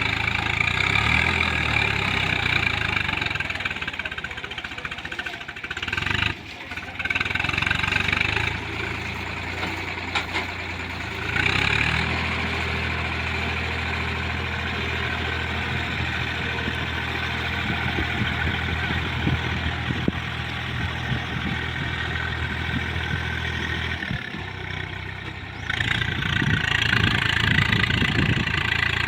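Swaraj 744 tractor's diesel engine running, its note shifting in the first several seconds, then holding a steady drone for about twelve seconds. Near the end it gives way to louder, rougher engine noise.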